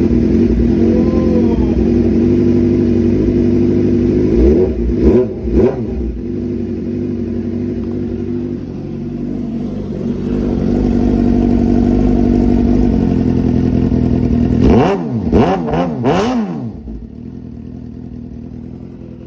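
Suzuki sportbike engine idling through a newly fitted eBay aftermarket exhaust (mid pipe into a slip-on can), still loud. It is revved twice about five seconds in, then blipped several times in quick succession near the end before the sound drops back to a quieter level.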